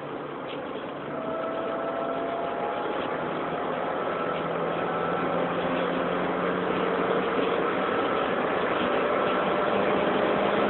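Supercharged BMW 318ti Compact's four-cylinder engine accelerating at high speed, heard from inside the cabin over road and wind noise. The engine note gets louder about a second in, then climbs slowly and steadily in pitch and loudness.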